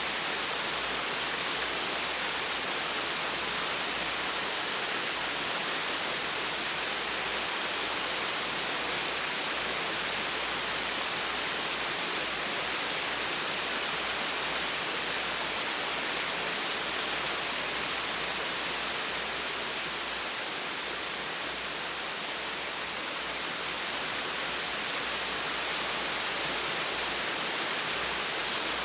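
Small waterfall splashing steadily, an even rush of falling water.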